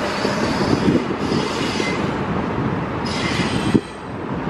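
Canadian Pacific double-stack container train cars rolling past, their steel wheels rumbling and clicking on the rails, with high-pitched wheel squeal coming and going twice. The noise dips briefly near the end.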